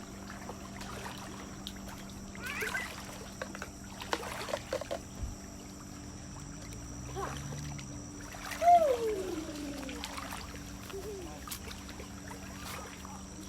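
Lakeside ambience: faint scattered voices and light water splashing over a steady hum, with one louder falling call about nine seconds in.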